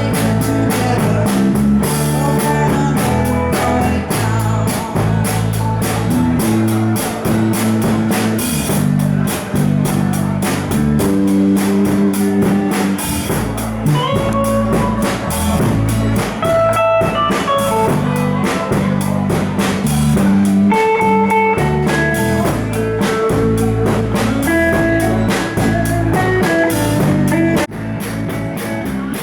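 Live band playing a blues-rock instrumental jam: electric guitar lines over bass and a drum kit.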